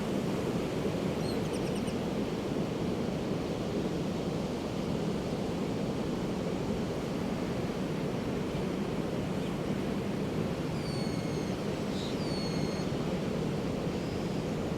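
Steady, even rush of ocean surf, with gulls giving a short call about a second in and two short falling calls near the end.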